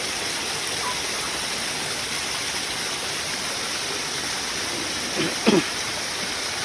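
Waterfall water pouring and splashing steadily, a dense even rush. About five seconds in, a person's voice is heard briefly.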